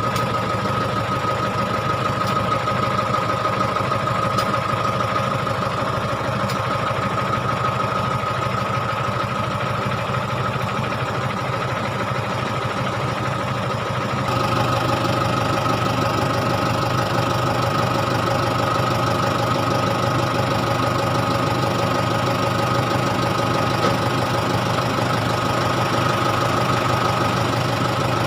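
An engine running steadily with a constant hum, getting a little louder about halfway through.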